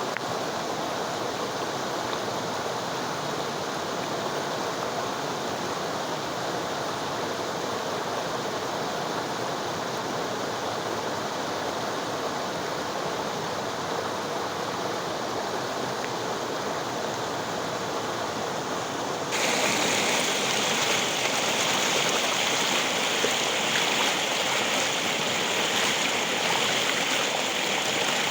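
River water flowing and rushing steadily. About two-thirds of the way through it turns abruptly louder and hissier.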